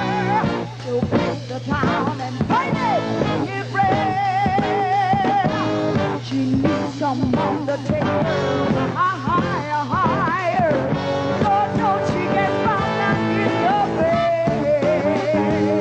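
Rock band playing an instrumental passage: a lead line of long held notes with vibrato and quick runs over bass and drums.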